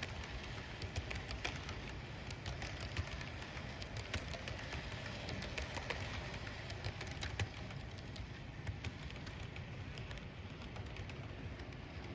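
HO-scale model freight train running on its track, its wheels clicking rapidly and unevenly over the rail joints above a steady low rumble of rolling.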